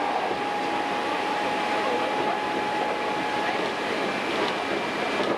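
Hankyu Kyo-train electric train running along the line, heard from inside the car: a steady rumble of wheels on rail with a thin, steady whine that fades out about three and a half seconds in.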